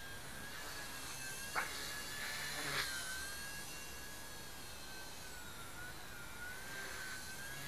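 Blade mCPX micro RC helicopter in flight: a steady high-pitched motor and rotor whine that drifts gently up and down in pitch as the headspeed changes. A sharp click sounds about a second and a half in, and a softer brief sound about a second later.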